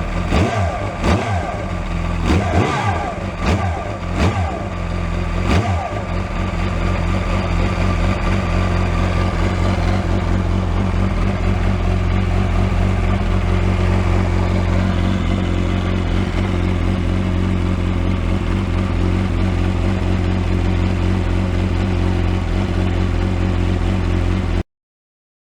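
Yamaha R1 inline-four engine blipped several times in the first few seconds, then idling steadily until it stops suddenly near the end. Underneath runs the clutch noise, there only with the clutch lever out, that the owner compares to a car's twin-disc clutch and is unsure is normal.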